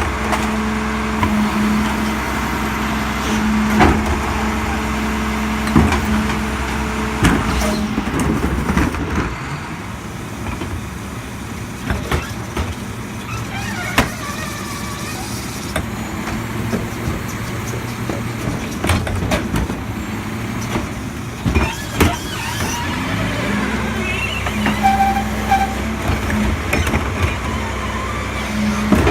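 Diesel engine of a Mack LEU garbage truck running with a steady hum, with sharp bangs and clanks at intervals. The engine's hum drops away about a third of the way through and comes back near the end.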